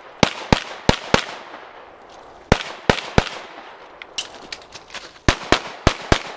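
Pistol shots fired in quick strings: four rapid shots, then three, then a few fainter pops, then four more near the end, each shot ringing briefly off the surroundings.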